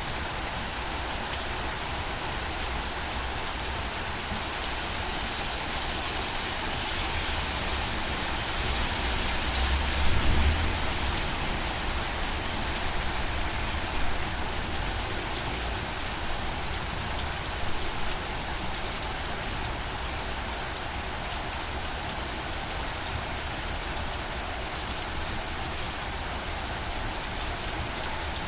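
Steady rain falling, an even continuous hiss. A brief low rumble about ten seconds in is the loudest moment, and a couple of smaller knocks come later.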